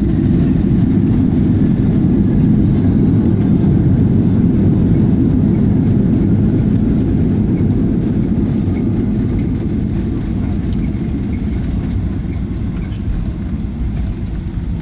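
Low, steady rumble of a Boeing 737-900ER landing, easing off slowly in the last few seconds.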